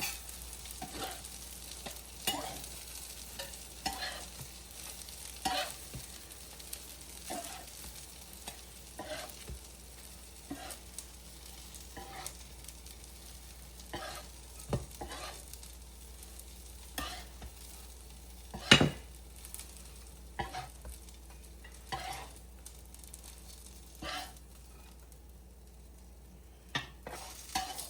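Zucchini fritters sizzling as they fry on a griddle, with short clicks and scrapes every second or two as they are handled, and one louder knock about two-thirds of the way through.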